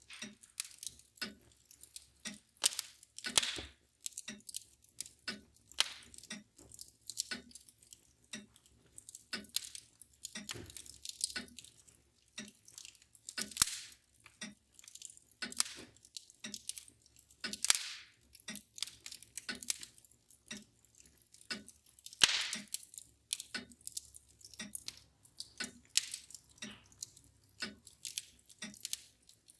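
Wood fire crackling with irregular sharp pops, a few much louder than the rest, over the steady ticking of a mantel clock.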